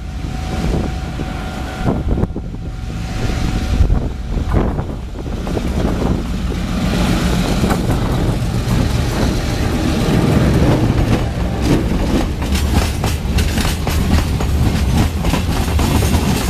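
Coal freight train passing behind an R20 diesel-electric locomotive: its wheels rumble and click rapidly over the rail joints, getting louder about six seconds in.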